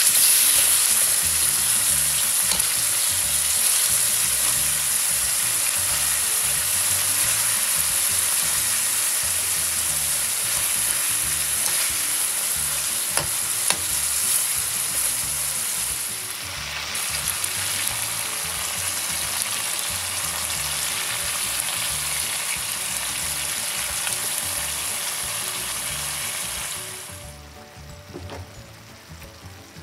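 Chicken thighs frying in oil in a metal wok, a steady loud sizzle, with a metal spoon stirring and now and then clicking against the pan. The sizzle drops off abruptly near the end.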